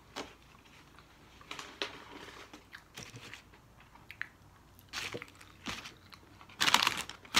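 Close-up chewing and crunching of fried chicken and fries, in scattered short crackles, with a louder crackling burst about six and a half seconds in.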